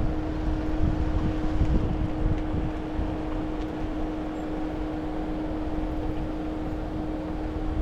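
Car on the move: a steady low rumble of engine and road with a constant hum.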